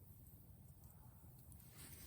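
Near silence: a faint low rumble with a few very faint ticks from a small wood fire, and a soft hiss swelling near the end.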